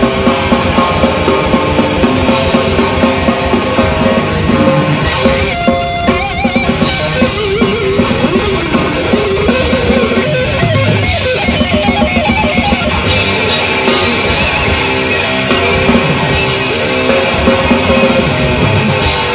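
Heavy metal band playing loud and dense, with distorted electric guitars and a drum kit. A wavering, bending lead guitar line comes through in the middle.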